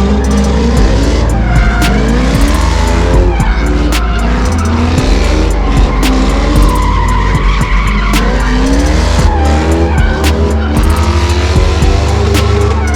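Car tyres squealing and engines revving in repeated rising and falling glides, as in burnouts, under loud music with a heavy bass.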